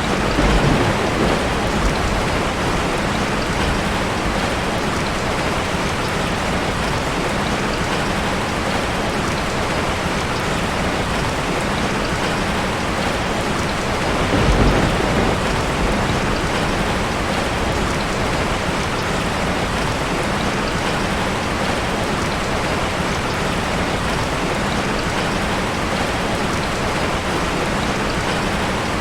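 Steady heavy rain falling on forest foliage, with two brief low rumbles, one about a second in and one about halfway through.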